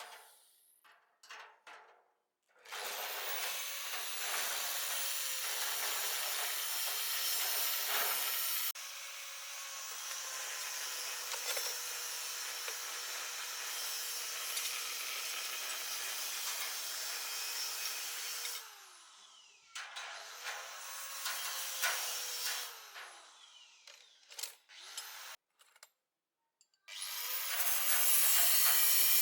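Handheld electric power tool run in four long bursts, working against material with a dense grinding or cutting noise. Its motor spins up at the start of each burst and winds down at the end, with a few knocks in the pauses.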